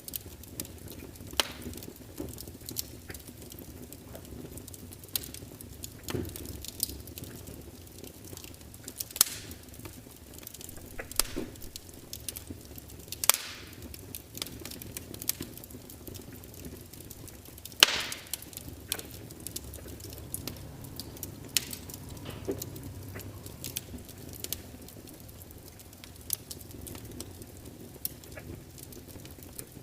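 Log fire crackling: burning wood gives off irregular sharp pops and snaps, a few louder ones now and then, over a low steady hiss of the flames.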